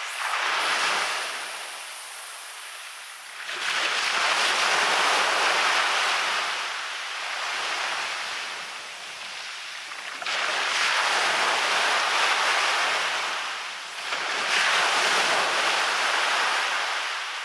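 Waves breaking and washing up onto a beach. Each surge builds and fades over a few seconds, with about four swells in all.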